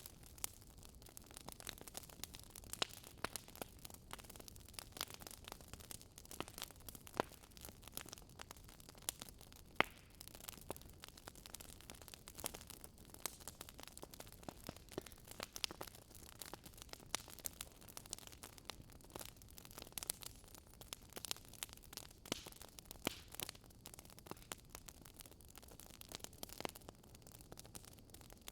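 Wood fire crackling in a fireplace: irregular sharp pops and snaps, several a second, over a low steady hiss.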